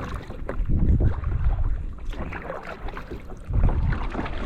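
Kayak paddle dipping and splashing in calm water, with wind rumbling on the microphone and swelling twice.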